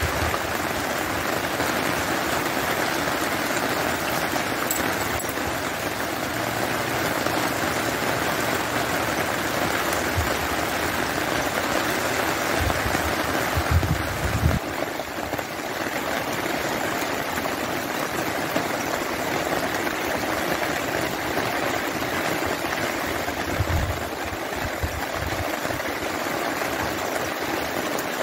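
Steady rain falling on wet ground and standing water, with a few brief low thumps about halfway through and again near the end.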